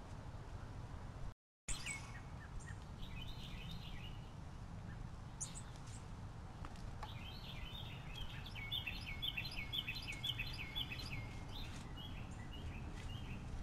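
Small birds chirping, with a quick run of rapid repeated chirps a little past the middle, over a steady low background rumble. The sound cuts out for a moment about a second and a half in.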